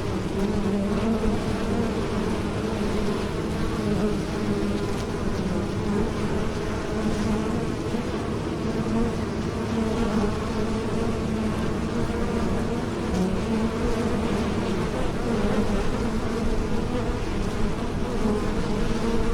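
Bees buzzing in flight: a steady, slightly wavering drone.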